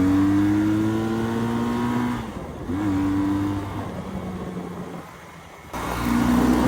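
Honda CB400N's parallel-twin engine accelerating under load, its pitch climbing steadily, dropping briefly at a quick upshift about two and a half seconds in and climbing again. Then the throttle eases off and the engine goes quieter, before a steady engine note returns near the end.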